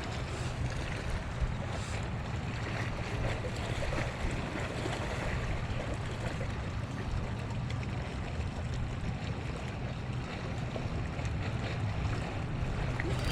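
Steady wash of moving water and wind at the shoreline, with a faint low steady hum underneath.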